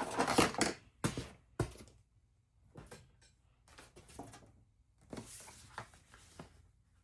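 Craft materials being handled on a table: a loud rustle, two sharp knocks about a second and a second and a half in, then quieter rustles and taps.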